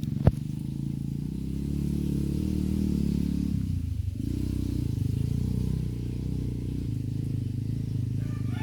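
An engine running steadily with a low, pulsing drone whose pitch shifts a little, and one sharp click just after the start.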